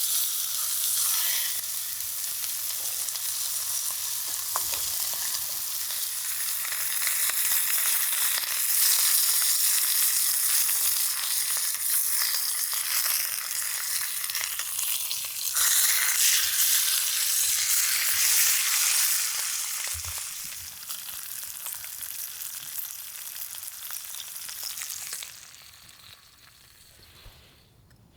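Food sizzling as it fries in a hot pan, swelling louder in places, then dying down sharply near the end.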